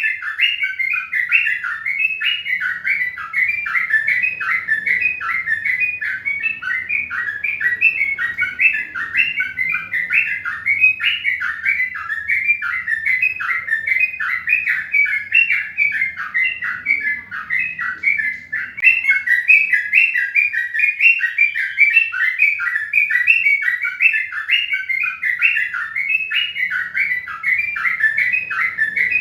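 A bird chirping without pause, a quick, even run of short high notes at about three or four a second.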